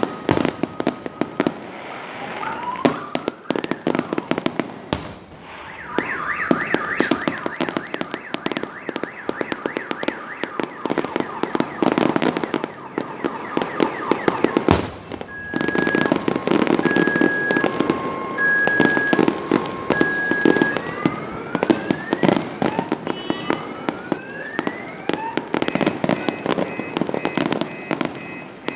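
Fireworks going off: dense crackling with several rising whistles from rockets, and two sharp bangs, about five and fifteen seconds in. From about fifteen to twenty-one seconds an electronic tone beeps on and off, about once a second.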